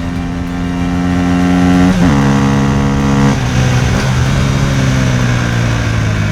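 Motorcycle engine running at a steady pitch that drops in two steps, about two seconds in and again about three seconds in, then holds.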